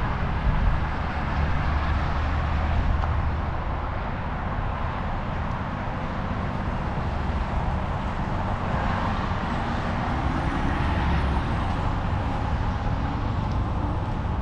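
A running motor vehicle's engine gives a steady low drone, with an even rushing noise above it.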